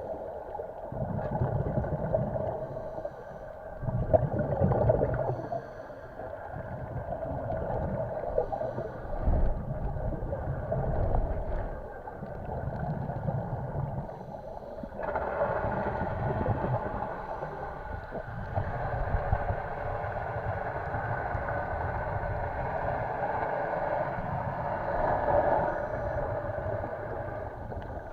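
Muffled underwater sound of scuba diving: a regulator's exhaled bubbles gurgling in surges every couple of seconds over a steady hiss, fuller and louder from about halfway through.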